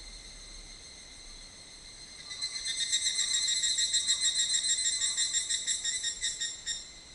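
A loud insect song of rapid, evenly spaced high-pitched pulses starts about two seconds in, slows near the end and stops after about four and a half seconds. Under it is a steady, fainter high insect drone.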